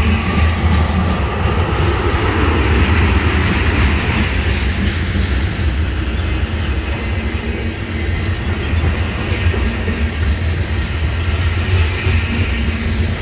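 Freight train's covered hopper cars rolling past close by: a steady, continuous rumble of steel wheels on rail.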